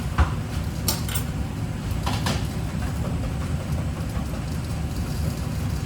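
A few sharp clinks and knocks of kitchen utensils and dishes, several in the first half, over a steady low hum.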